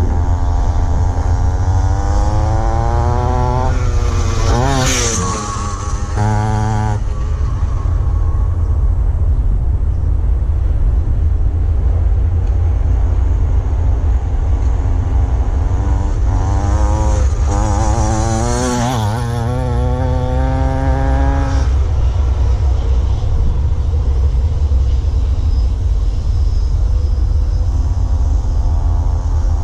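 Mototec Demon 50cc pit bike engine revving over a steady low rumble. Its pitch climbs and wavers in two spells, a few seconds in and again about two-thirds of the way through.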